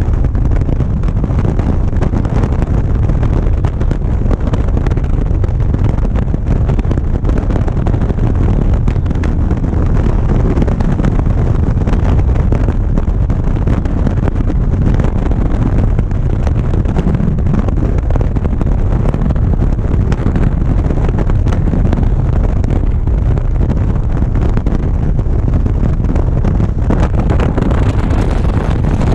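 Motorcycle at steady cruising speed, heard mostly as wind rushing over the GoPro's microphone: a loud, even, low rumble.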